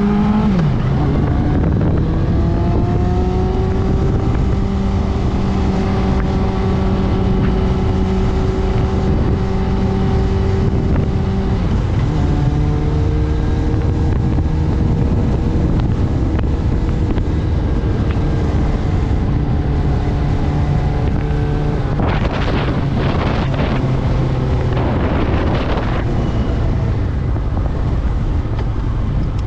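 Street motorcycle engine running under way, with wind rushing over the microphone. The engine note drops at the start, then holds steady, changes pitch about twelve seconds in, and the wind noise swells for a few seconds later on.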